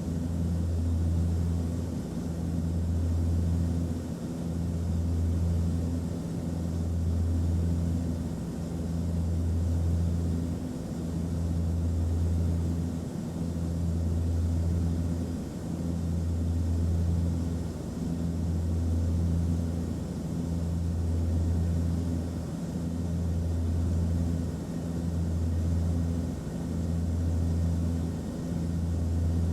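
Airplane cabin noise: a steady low drone with a faint hiss above it, the hum swelling and fading about every two seconds.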